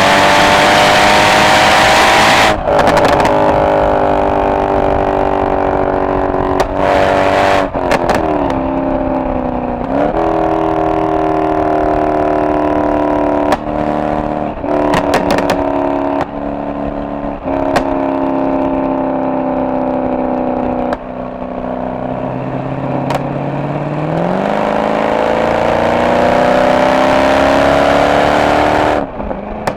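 Mercedes-AMG SL63's V8 exhaust under acceleration, its pitch climbing through each gear and dropping sharply at every shift, several times over. Short sharp pops come at some of the shifts, and partway through the engine note falls away as the car slows before pulling up again.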